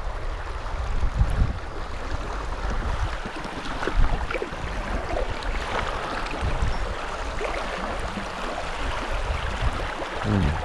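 Running river water around a kayak, a steady rushing noise, with wind buffeting the microphone in low irregular rumbles.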